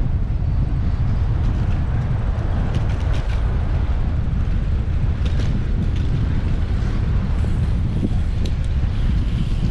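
Wind rumbling steadily on the microphone of a bicycle-mounted action camera while riding, over road traffic noise, with a few faint ticks.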